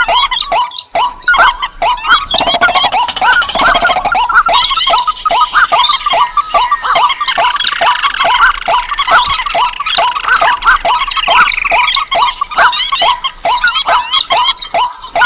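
A dense chorus of rice-field and swamp bird calls used as a bird lure: rails, crakes, swamphens and waterhens. Sharp, rapid calls repeat about four times a second and overlap with gliding notes.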